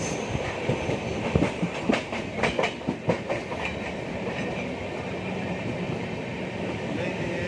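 Passenger train running along the track: a steady rumble with a run of sharp wheel clicks over rail joints in the first half, smoothing out toward the end.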